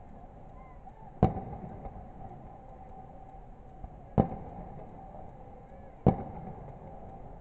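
Fireworks exploding: three loud, sharp bangs, each with a short echoing tail, spaced a few seconds apart over steady background noise.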